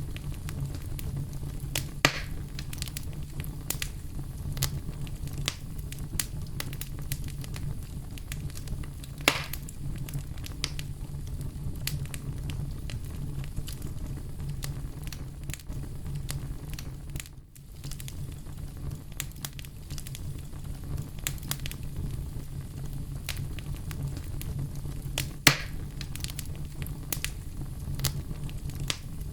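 Bonfire burning, with a steady low rumble under constant small crackles and three louder pops from the burning wood. The sound dips out briefly about halfway through.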